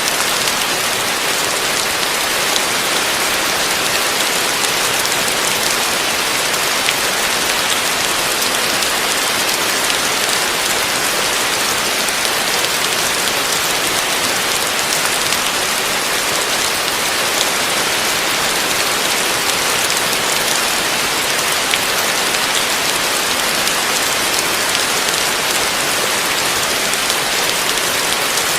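Heavy rain falling steadily: an even, unbroken hiss with scattered sharp drop ticks.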